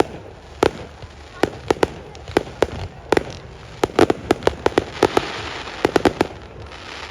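Fireworks display: a rapid, irregular series of sharp bangs from aerial shells bursting, densest in the middle of the stretch with a crackling fizz among them, then stopping shortly before the end.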